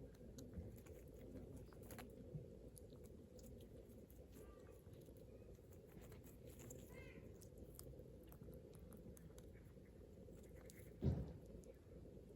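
Near silence: a faint steady low rumble with scattered small clicks, a faint bird chirp about seven seconds in, and a single thump about eleven seconds in.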